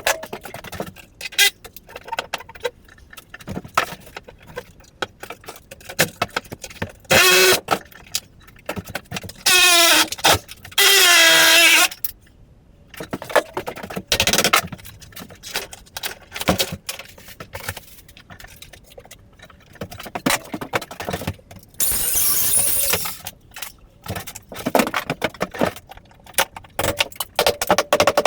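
Demolition of a rotten bathroom floor: scattered knocks, clinks and clatter of hand tools and boards. Three loud screeching bursts, each a second or two long, come a few seconds in, and a short loud hiss comes later.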